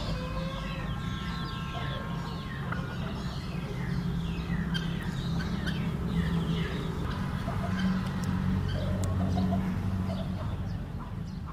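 Birds calling, a busy run of short falling chirps repeated over and over, over a steady low rumble.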